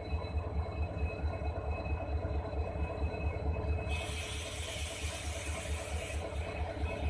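Locomotive cab interior: the locomotive's steady rumble with a rhythmic low throb and a thin steady whine. A hiss comes in about four seconds in and stops about two seconds later.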